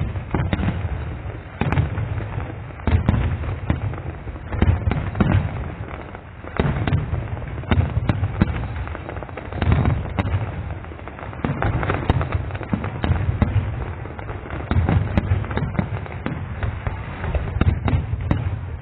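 Fireworks display: a continuous barrage of shell bursts, several bangs a second, with deep booms and no let-up.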